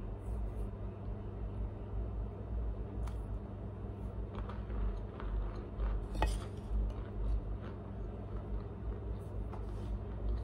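Soft chewing of Argo cornstarch chunks, with faint scattered clicks and mouth sounds, not crunchy, over a steady low hum. A brief sharper scrape comes about six seconds in.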